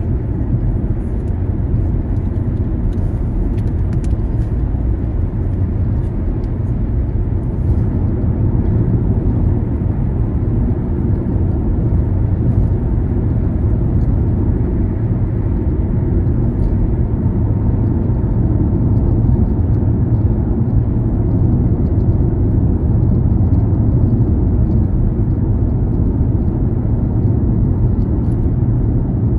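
Car on the move: a steady, low rumble of engine and road noise.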